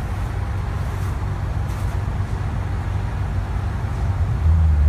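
Detroit Diesel 6V71 two-stroke V6 diesel engine of a 1974 fishbowl transit bus running as the bus drives, a steady low drone that grows louder near the end.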